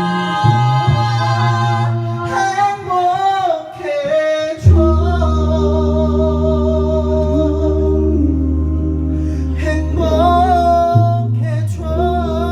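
A cappella vocal group singing a slow ballad in close harmony, with a lead voice over held chords. About a third of the way in, a deep bass voice comes in loudly on a low note and holds it under the chord.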